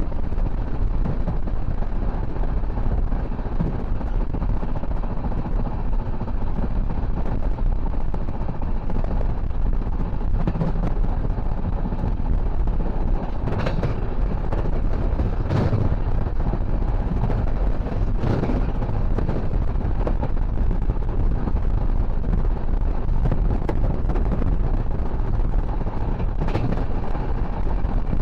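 Passenger train running along the track: a steady low rumble with wind buffeting the microphone, and a few sharp knocks around the middle and once near the end.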